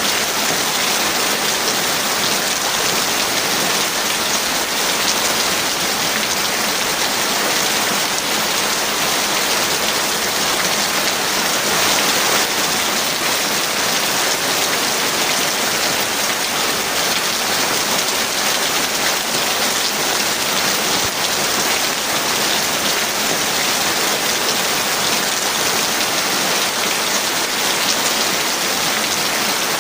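Heavy rain falling steadily, a dense even hiss of many drops with no thunder.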